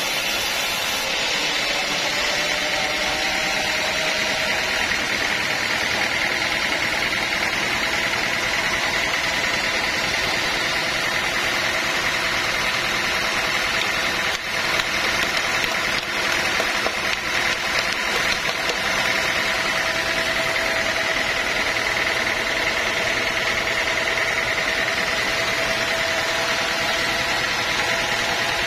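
Sawmill machinery running steadily, with a continuous high whine that wavers slightly in pitch.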